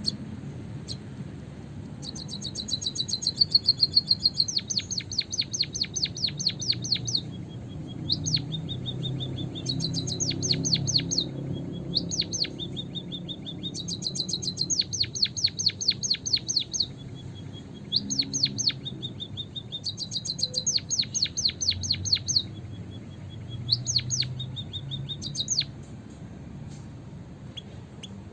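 White-headed munia (emprit kaji) calling in about five bouts of rapid, high chirping notes, each bout a few seconds long, with short pauses between.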